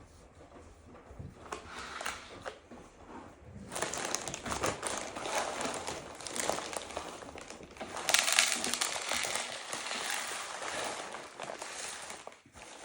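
A coated pinecone rolled and pressed through dry bird-feeder mix: a continuous crackling, crunching rustle that starts a few seconds in and is loudest a little past the middle.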